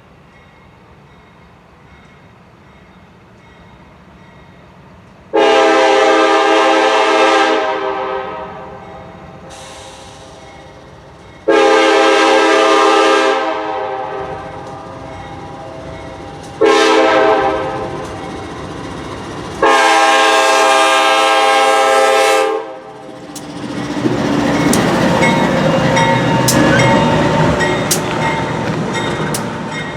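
BNSF GE C44-9W diesel locomotive sounding its first-generation Nathan K5HLA five-chime air horn in four blasts: long, long, short, long, the grade-crossing signal. The locomotive then passes close by, its engine rumbling and its wheels clicking over rail joints.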